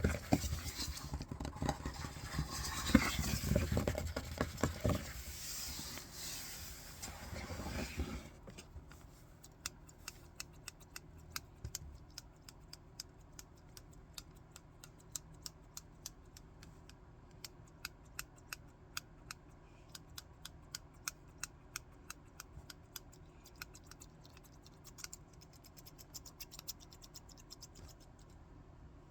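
Paper handled and rustled for the first several seconds, then scissors cutting paper in a long run of small, quick snips, several a second.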